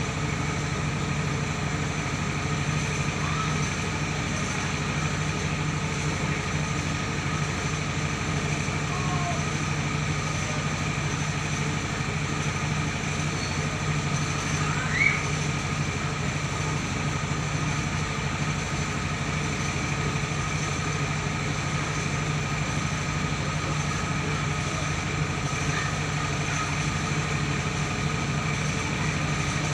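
Mobile rice-milling machine running steadily: a constant engine drone with a steady high whine from the milling machinery. A short rising chirp sounds about halfway through.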